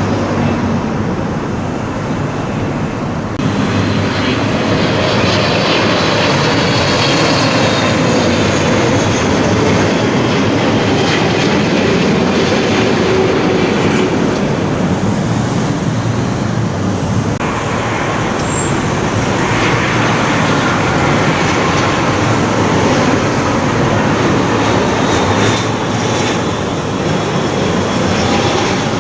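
Jet airliner engines close by on the landing approach: a loud, steady rushing roar with faint whining tones above it. The high rush comes in suddenly about three and a half seconds in.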